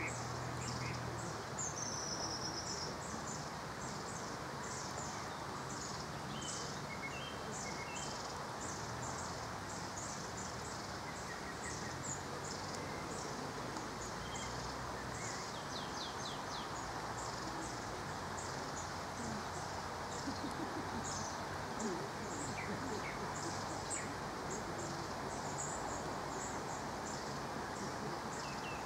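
Steady rain falling on a pond, a constant hiss, with small birds giving short high calls over and over in the background.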